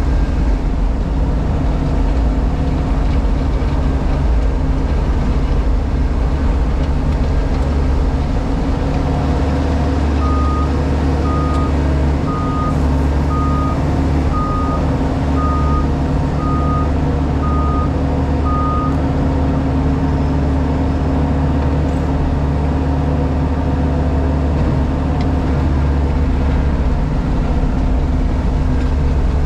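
Diesel engine of a JCB Pothole Pro running steadily, heard from inside the cab. About ten seconds in, a reversing alarm sounds nine short even beeps at one pitch, about one a second.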